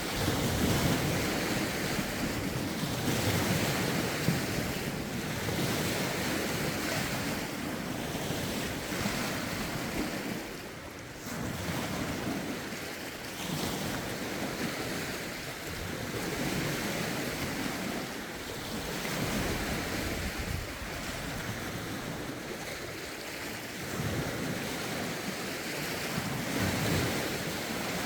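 Lake waves washing in against the shore in irregular swells every few seconds, with gusty wind buffeting the microphone.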